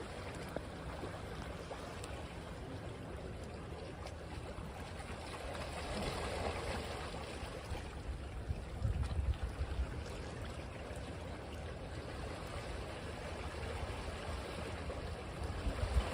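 Gentle surf washing on a beach, a soft wash of water that swells about six seconds in and eases off again. A brief low rumble of wind on the microphone comes near the middle.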